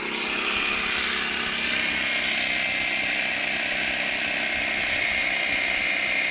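SDS hammer drill running steadily with a large 22 mm bit, boring through hard stone.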